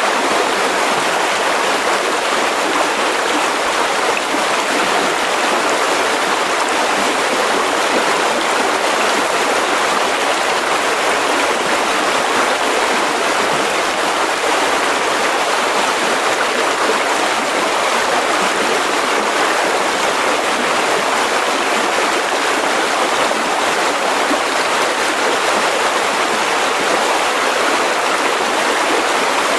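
Mountain river rushing steadily over rocks, an even, unbroken rush of water with no pauses or changes.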